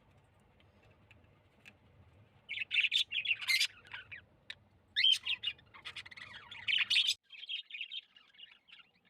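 Small pet birds chirping and squawking: quiet at first, then a busy run of loud, rapid chirps from about two and a half seconds in, easing to softer, steady chattering for the last two seconds.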